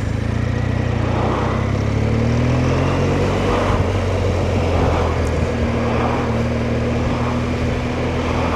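Motorcycle engine running under way with wind and road rush. The engine note rises a little in the first few seconds as it pulls, then holds steady.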